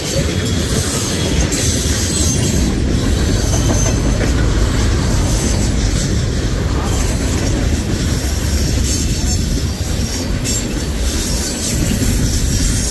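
CSX manifest freight train M300 rolling past, its cars passing in a loud, steady stream of wheel-on-rail noise.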